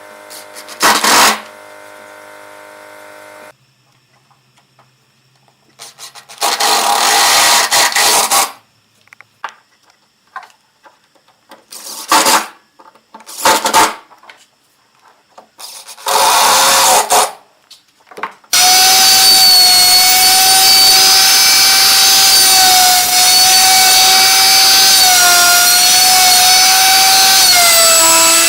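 Electric power tool motor started in several short bursts, then running continuously for the last third with a steady high whine whose pitch sags slightly now and then, as under load.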